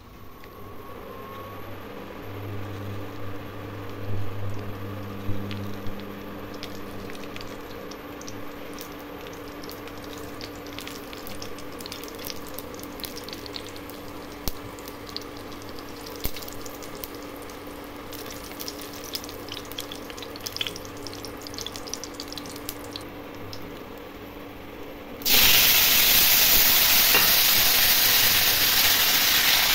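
A dried red chilli sizzling in hot oil in a wok, with scattered crackles over a low steady hum. About 25 seconds in, raw potato cubes go into the oil, and the sound jumps at once to a much louder, steady frying hiss.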